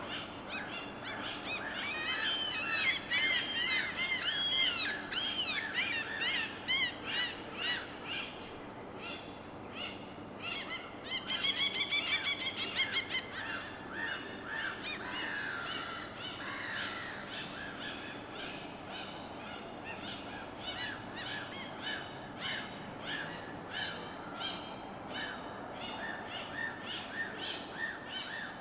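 A mix of birds chirping and calling, with busy arching calls in the first few seconds and a fast trill of repeated notes about eleven seconds in, over a steady faint background wash.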